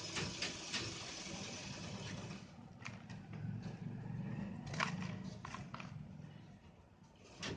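Molded red sand shapes crumbling and crunching as they are crushed. There is dense crackling for the first couple of seconds, then it goes quieter with a few separate sharp crunches.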